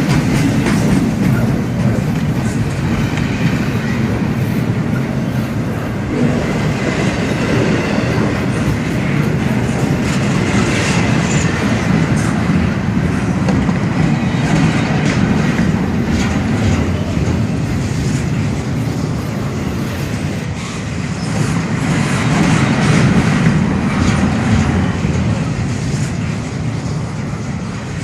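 A long freight train's cars rolling past close by: a steady loud rumble of wheels on the rails, with a running clickety-clack of wheels over the rail joints.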